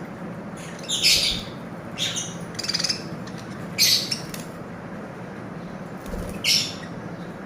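Lovebirds giving short, high-pitched chirping calls, about five separate calls with pauses between them.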